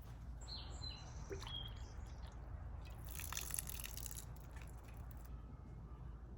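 Quiet outdoor garden ambience with a steady low rumble, a few short high bird chirps in the first second or two, and a brief scratchy rustle about three seconds in.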